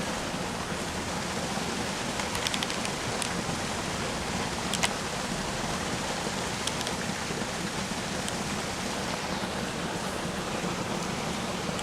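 Steady rushing background noise, with a few short clicks about two to five seconds in and again near the end.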